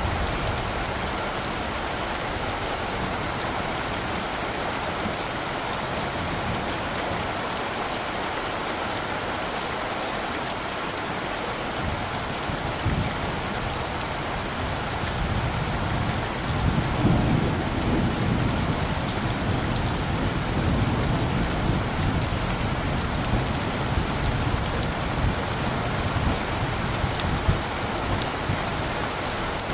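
Steady rain falling, with many small drop hits. About halfway through, a low thunder rumble comes in; it swells a little past the middle and keeps rolling under the rain.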